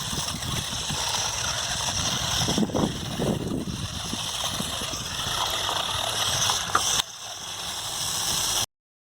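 RC monster truck running over dry forest leaves: motor noise with the leaves crackling and rustling under the tyres. The sound drops about seven seconds in and cuts off suddenly shortly before the end.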